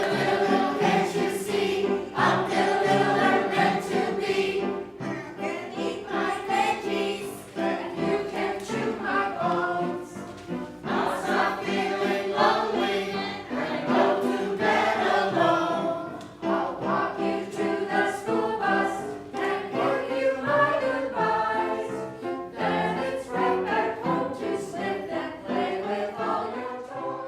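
A choir of many voices singing a song together in chorus.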